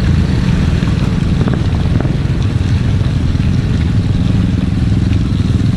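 Motor scooter engine running steadily while being ridden along a muddy dirt road.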